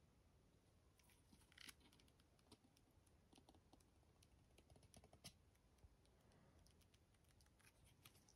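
Faint, scattered light clicks and taps, with a short rustle about one and a half seconds in: small items being handled close to the microphone.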